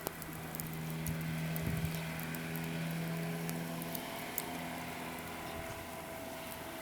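Steady motor hum that shifts in pitch about four seconds in, with faint scattered ticks.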